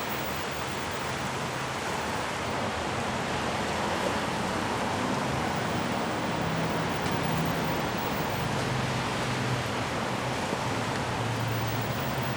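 Steady rushing noise, with a faint low hum that comes and goes underneath.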